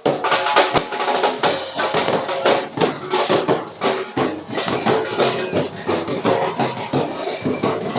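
Percussion-driven music: drums and other percussion beat a fast, steady rhythm, with some pitched instruments under it.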